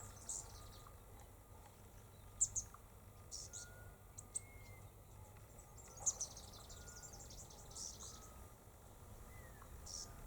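Short, high-pitched bird chirps every second or two, over a low steady background rumble.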